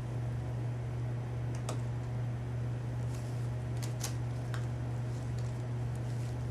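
Steady low mechanical hum in a small room, with a few light clicks: one just under two seconds in, and a quick pair about four seconds in.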